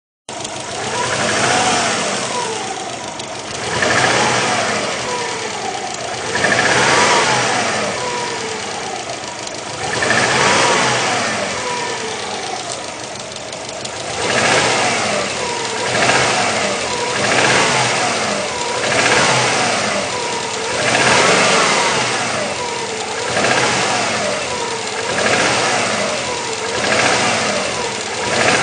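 Subaru Legacy GT-B's flat-four engine blipped over and over, its revs rising and falling about a dozen times, every two to three seconds at first and closer together later. The owner asks whether the noise it makes is piston slap.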